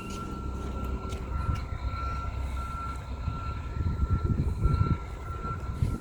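A vehicle engine rumbling steadily while a backup alarm gives a run of short, evenly spaced beeps.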